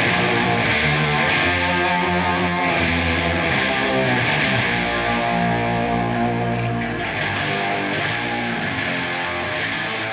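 Instrumental hard rock: a distorted electric guitar holds sustained, ringing notes over bass, with no singing, easing slightly in level near the end.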